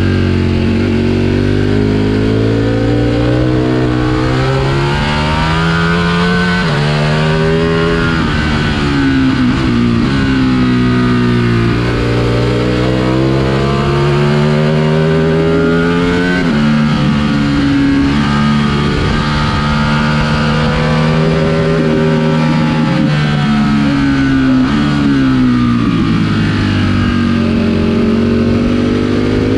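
Ducati Panigale V4S V4 engine at racing pace, heard from onboard with wind rush. The engine note climbs through the revs, drops sharply at upshifts about a quarter and about half of the way in, and sinks twice under braking and downshifts before climbing again.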